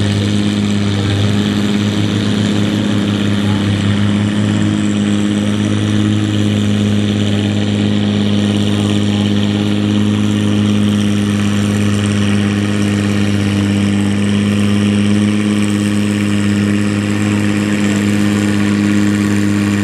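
Farmall 460 tractor's engine running loud and steady at a constant speed, with a slight waver in pitch during the first few seconds.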